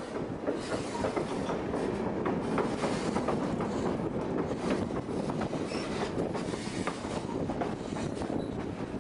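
Narrow-gauge passenger train running on the White Pass & Yukon line, heard from on board: a steady rumble of the wheels on the rails, with many small clicks and rattles all through.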